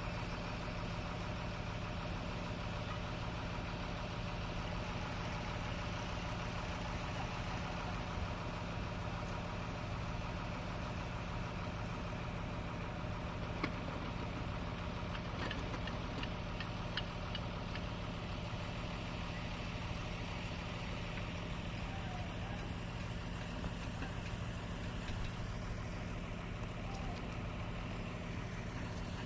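An engine running steadily at idle, an even hum that does not change, with a few faint clicks about halfway through.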